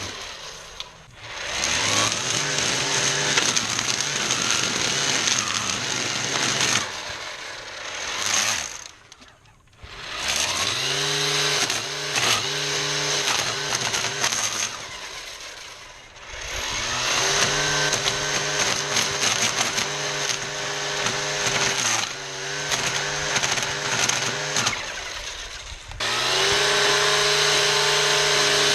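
ECHO 58-volt battery string trimmer's electric motor whining as its line cuts through tall weeds and grass. The trigger is let off and squeezed several times, so the whine falls away and spins back up. The motor nearly stops about nine seconds in before winding up again.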